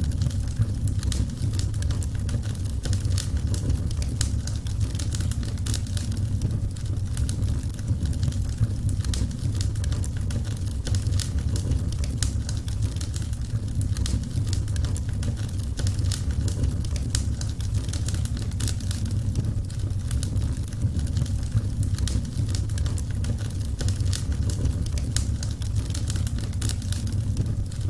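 Burning wood crackling in a fire: dense, irregular small pops and snaps over a steady low rumble.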